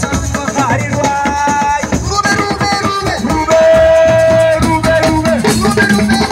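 Live assiko band music: hand drums and shakers in a dense rhythm under a melody of long held notes.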